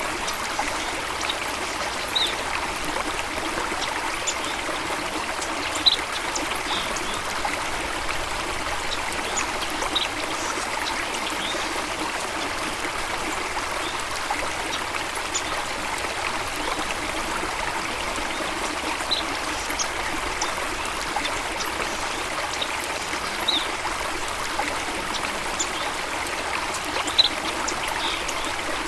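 A stream of water flowing and trickling steadily, with a few short, high chirps standing out now and then.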